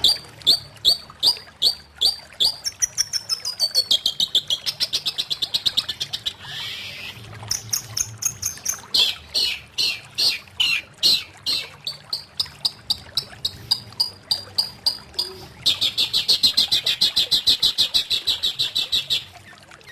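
Long-tailed shrike (cendet) singing a long, varied song of sharp, rapidly repeated high notes, with a harsh rasp about six seconds in and a fast, even rattling run near the end.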